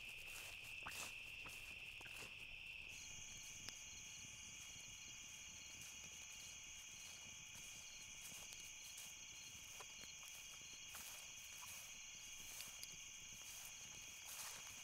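Faint, steady trilling of crickets or similar insects; a second, higher-pitched trill joins about three seconds in. A few faint scattered clicks.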